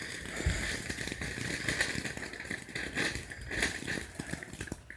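A consumer firework crackling: a dense run of small irregular snaps and sputters that eases off near the end.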